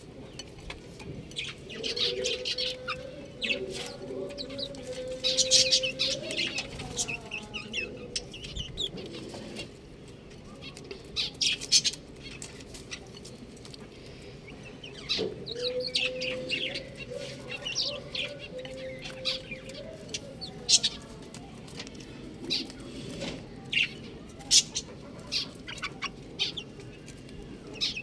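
Domestic chicks chirping: many short, high peeps scattered throughout. Twice a longer, lower call is held for several seconds and rises in pitch at its end.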